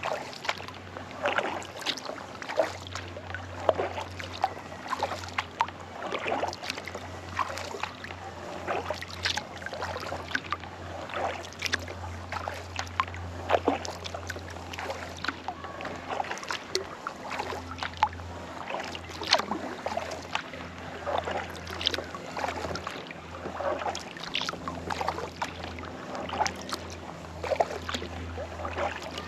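Kayak paddle strokes: the blades dip and splash in the lake water again and again, with dripping in between, over a low steady hum.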